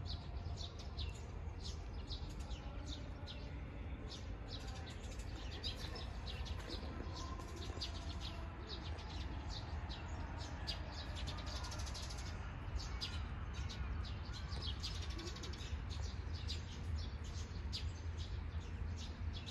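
Small birds chirping over and over, short quick calls throughout, over a low steady rumble.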